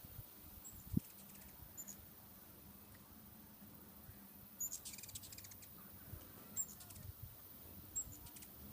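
Hummingbirds giving short, high, thin chip calls every second or two, with a burst of rapid chattering about five seconds in as they chase each other around a feeder. A low thump about a second in.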